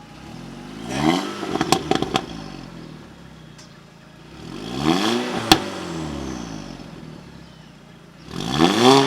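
An engine revved three times, each rev rising and then falling back over about two seconds, with a few sharp clicks in between.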